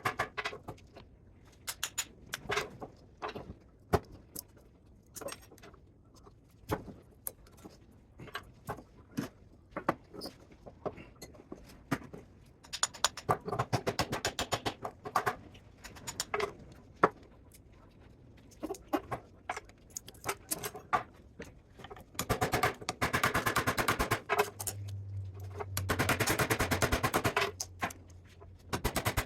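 Metal clinks, knocks and rattles of a spot welder being taken apart for scrap. Near the end, a power tool runs twice with a rattling buzz, for about two and then three seconds.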